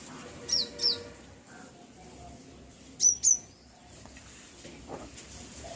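Small bird chirping: four short, high chirps, each sliding down in pitch, in two quick pairs, one pair about half a second in and one about three seconds in.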